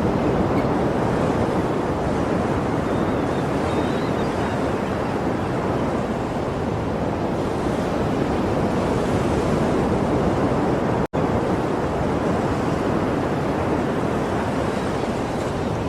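Sea waves breaking, a steady even wash of surf with no distinct swells. The sound cuts out for an instant about eleven seconds in.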